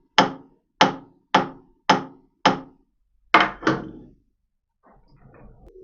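A hammer tapping a steel base plate held in a lathe chuck, seven sharp knocks about half a second apart with a short ring after each, nudging the plate in to take out swash on its rear face.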